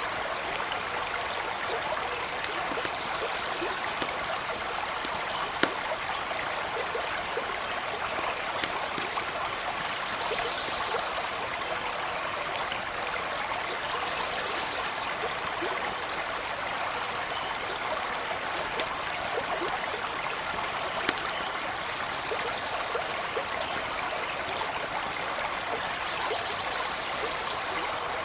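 Small stream running steadily over stones, with a few sharp pops and crackles of a campfire scattered through it.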